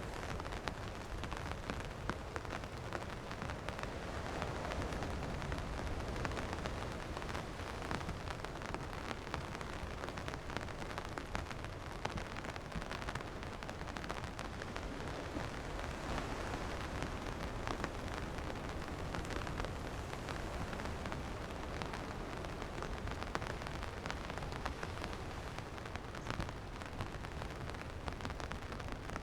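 Steady rain falling, with many close drops ticking over an even hiss and a low rumble underneath.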